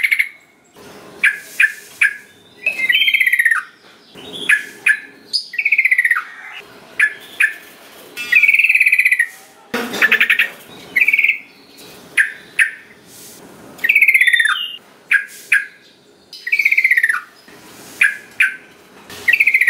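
Yellow-vented bulbul (trucukan) calling: short, chattering phrases of bright, falling notes, repeated every second or two with brief pauses between.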